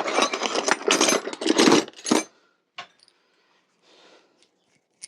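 Metal hand tools clattering against each other for about two seconds as a tool drawer or box is rummaged through, followed by a single sharp click.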